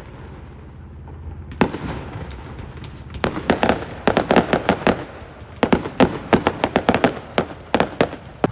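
Fireworks going off: a single bang, then rapid strings of sharp cracks and pops.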